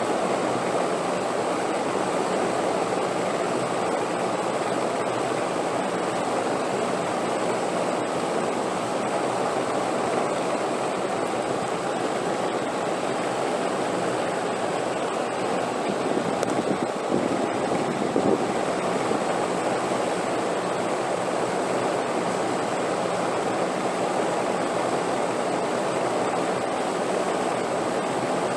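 Steady rushing wind noise that swells slightly about two-thirds of the way through.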